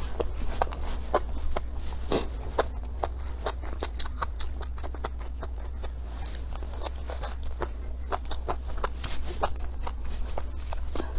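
Close-miked eating: a quick, irregular run of wet chewing and smacking clicks as mouthfuls of rice and stir-fried mushrooms are shovelled in with chopsticks from the bowl's rim. A steady low hum runs underneath.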